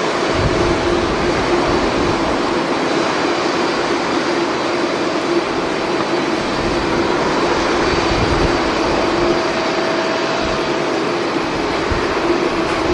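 Jet airliner engines running as a loud, steady rush with a few steady whining tones through it, while gusts of wind buffet the microphone in low rumbles.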